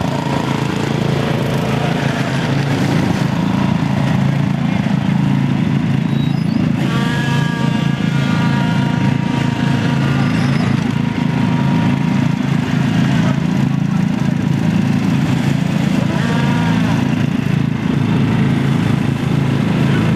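Riding lawn mower engines running steadily and loudly.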